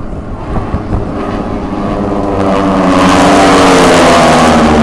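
Radial engines of a formation of North American T-6 Texans passing by. The engine note grows steadily louder to a peak about three to four seconds in, and its pitch drops slightly as the planes go past.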